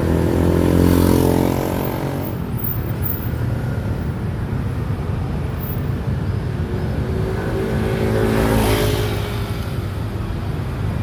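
Road traffic with engines running. Two motor vehicles pass close by, one about a second in and one near the end, each swelling and then fading.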